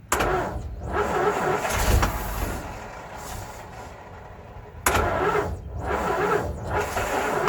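Hall-Scott 1091 cubic-inch straight-six of a 1958 Mack B-21 fire truck cranking on its starter, an engine trying to start after 30 years of sitting and now fed from a fuel can. The cranking starts suddenly, eases off about halfway through and comes back louder about five seconds in.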